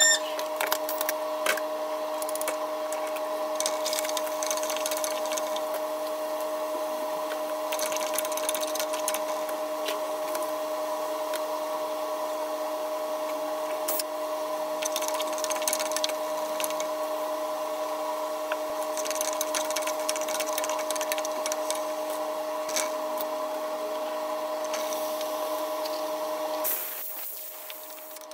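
Garlic and onion frying in oil in an aluminium pot, sizzling in scattered crackling spells, over a steady mechanical hum of a few fixed tones. The hum drops out about a second before the end.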